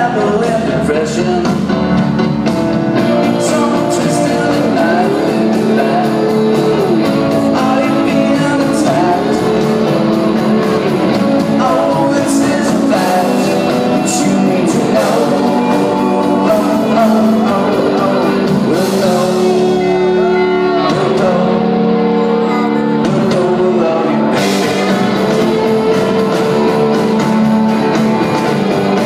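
Live rock band playing with a singer, heard through an audience recording.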